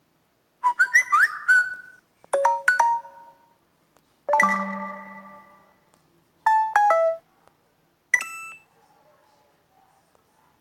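A series of short iPhone-style notification alert tones played one after another: about five separate chime sounds, each a few bright pitched notes that ring briefly, with short pauses between them.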